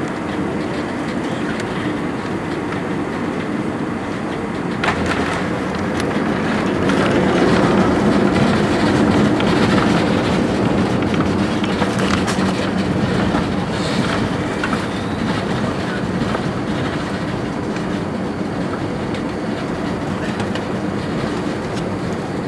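Airbus airliner's cabin noise during landing: a steady rumble, a thump about five seconds in as the wheels touch down, then the engines run louder for several seconds in reverse thrust while the aircraft rolls and slows on the runway, the noise easing after.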